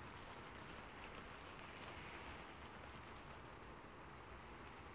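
Faint, steady rain falling on a rooftop, an ambience recording with many small drop ticks.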